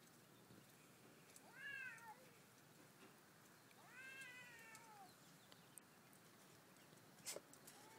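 Faint, drawn-out cat yowls, two calls that rise and fall in pitch, typical of a cat fight standoff; a sharp click near the end.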